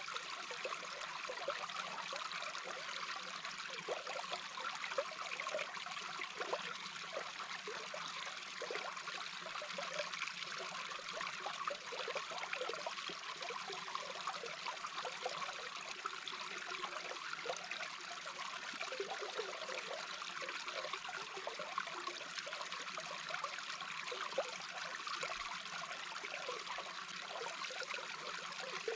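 A small brook heard underwater: a steady rush of flowing water with a constant flicker of bubbling and gurgling.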